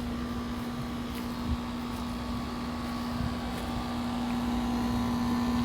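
A steady mechanical hum holding one pitch over a low rumble, growing gradually louder toward the end.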